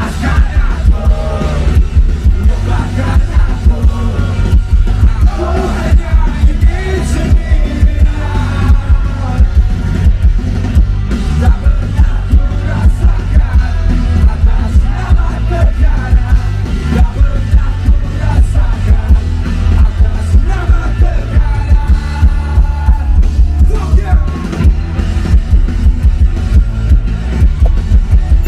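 Live rock band playing loudly, with heavy bass and drums and a male voice singing over distorted guitars.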